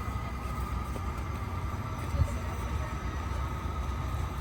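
Steady low rumble of city vehicle traffic with a faint steady whine over it, and a single sharp knock about two seconds in.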